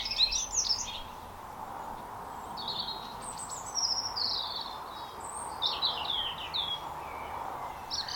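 A songbird singing short phrases of quick, high chirping notes, about three phrases with pauses between them, over steady background noise.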